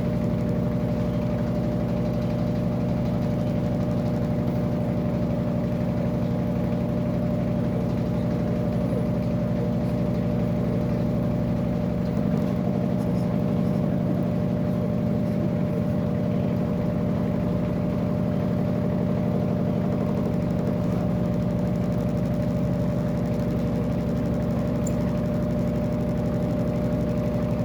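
Electrolux LAC13 13 kg top-loading washing machine running with a steady motor hum, even and unchanging throughout.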